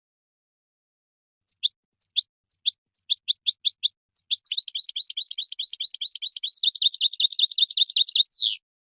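European goldfinch singing: starting about a second and a half in, a string of separate high falling notes, about three a second, speeds up at about four seconds into a fast trill and ends with one sweeping note near the end.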